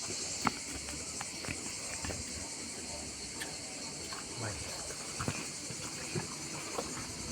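Insects chirring steadily in a high-pitched, finely pulsing drone, with scattered light clicks and taps.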